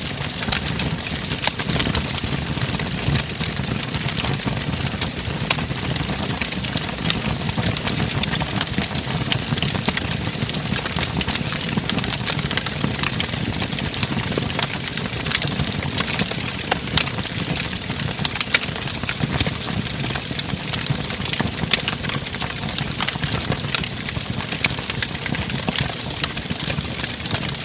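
Wood fire crackling in a fireplace: many sharp pops and snaps over a steady low rumble of the flames.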